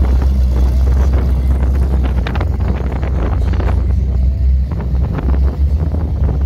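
Classic cars driving slowly past one after the other, a mid-1950s Chevrolet Task Force pickup and then a first-generation Chevrolet Camaro, their engines and exhausts giving a steady low rumble.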